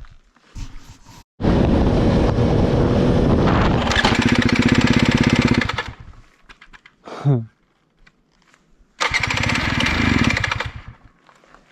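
Dirt bike engine catching and running for about four seconds before dropping away, then starting again about nine seconds in and dying after a couple of seconds. The bike is nearly out of gas.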